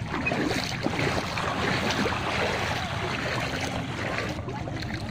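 Floodwater sloshing and rushing, with wind rumbling on the microphone.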